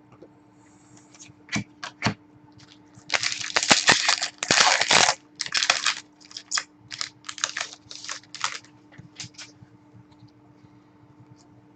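A trading card pack being torn open. A few sharp clicks come first, then about two seconds of loud tearing and crinkling of the wrapper, followed by a string of shorter crinkles and rustles.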